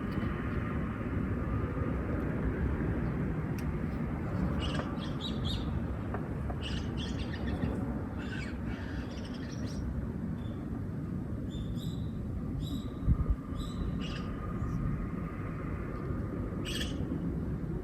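Small birds chirping in short, scattered calls over a steady low background rumble, with a brief low thump about 13 seconds in.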